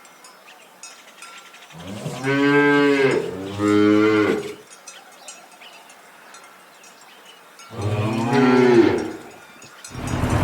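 A cow mooing three times: two long moos back to back, then a third a few seconds later. A loud, different sound starts just at the end.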